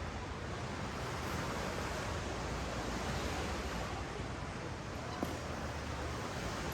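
Ocean surf washing up the beach, a steady rush of waves, with a single small click about five seconds in.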